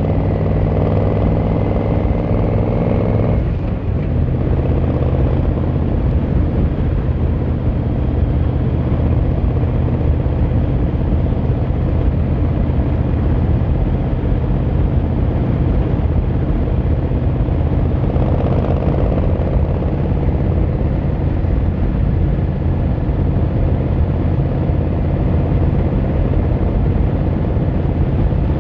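Yamaha XVZ1300 Royal Star's V4 engine and exhaust under way on the road. The engine note is higher for the first few seconds, drops sharply about three and a half seconds in, and then runs steadily, climbing again for a moment past the middle.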